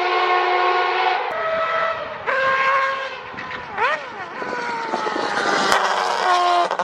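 Race car engine at high revs on the main straight, holding one high note, then cutting off abruptly about a second in. The note comes back with a quick rev up and down, then slides steadily lower in pitch.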